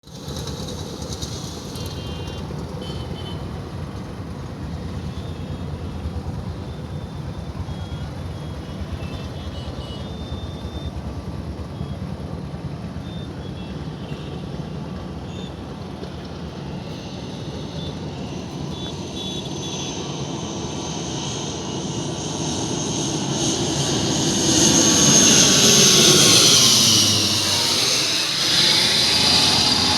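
Airliner on landing approach, its engines a steady drone that grows louder over the last ten seconds. It peaks about 25 seconds in as the aircraft passes close by, with a high whine falling in pitch.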